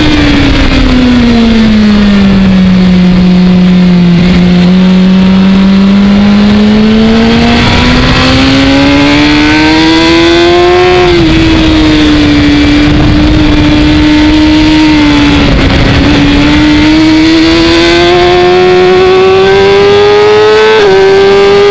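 Sport motorcycle engine at high revs, heard from a camera mounted on the bike, with wind rush. The engine note falls over the first few seconds as the bike slows into a corner, then climbs steadily under acceleration. It dips briefly about two-thirds of the way through and climbs again, with a short break near the end.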